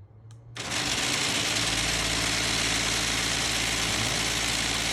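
A click, then the Genie garage door opener's motor starts just over half a second in and runs with a loud, steady grinding while the door does not go up. This is the sign of a worn latch carriage whose teeth no longer catch the drive, which the owner thinks is torn out inside.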